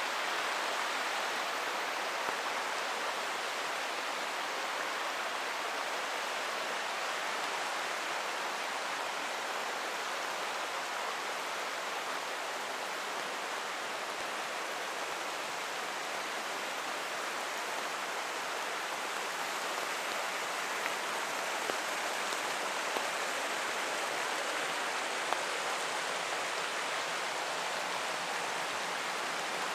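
Steady rushing of a forest creek with falling rain, with a few faint ticks of drips about two-thirds of the way in.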